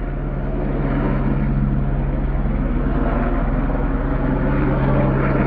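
Helicopter in flight, its rotor and engine running as a steady, continuous drone.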